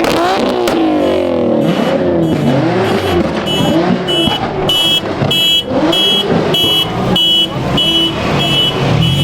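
A car engine revved over and over, each rev rising and falling in pitch. A few seconds in, a high electronic beep starts pulsing about twice a second alongside it, like a car alarm.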